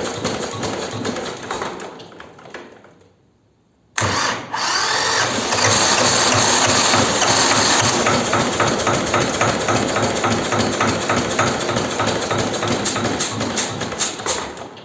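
The T-25 tractor's two-cylinder air-cooled diesel engine, hard to start after sitting all winter, runs unevenly and dies out in the first three seconds. About a second later it is cranked again, catches and runs loudly with an even throbbing beat, then fades away near the end.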